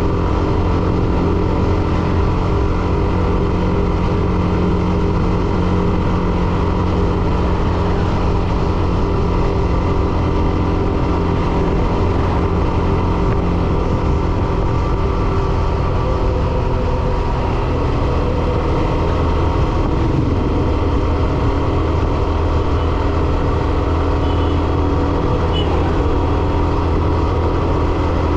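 Hero Xtreme 125R's single-cylinder engine running steadily under way, over a steady rush of wind and road noise. The engine note shifts slightly in pitch about two-thirds of the way through.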